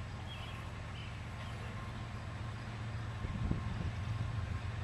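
Low, steady rumble of a diesel-hauled freight train, growing louder about three seconds in.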